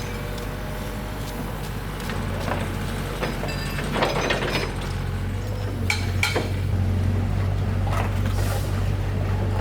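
An engine running steadily at low speed, with a few sharp metallic clinks and knocks over it.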